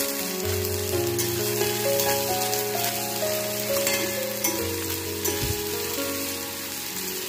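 Sliced onions sizzling in hot oil in an iron kadai, stirred with a spatula with light scrapes now and then, under background music with a slow melody.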